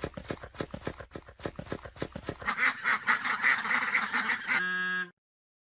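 Ducks quacking: a quick run of short quacks, then a denser, louder stretch of quacking. Near the end comes a short steady electronic tone.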